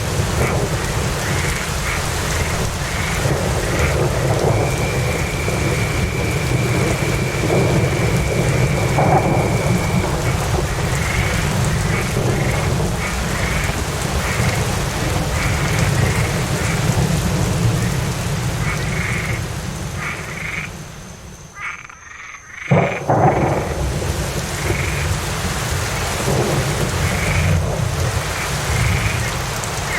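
Steady rain with a low, distant rumble of thunder under a chorus of frogs croaking in short calls, about two a second. A thin steady whistle sounds for several seconds early on. Around 21 seconds in, the sound briefly drops away, then returns with a sudden knock.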